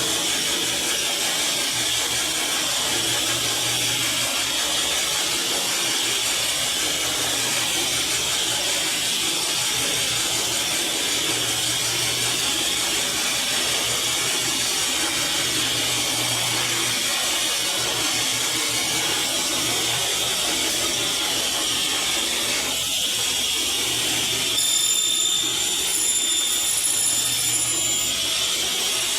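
Electric power tool running steadily while cutting MDF board. Near the end it gets slightly louder, with a high whine.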